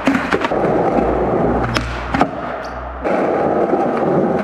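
Skateboard wheels rolling on pavement with several sharp clacks of the board, two near the start and two around the middle. The rolling drops for a couple of seconds and picks up again near the end, with a low rumble in between.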